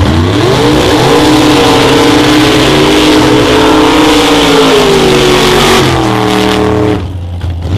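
Highly tuned racing car engine at full throttle in an acceleration run: the revs climb steeply in the first second, then hold high with small dips as it pulls, easing slightly before the sound cuts off abruptly about seven seconds in.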